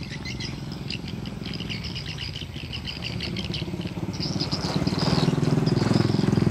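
Small birds chirping, with a low engine-like drone that grows louder from about four seconds in.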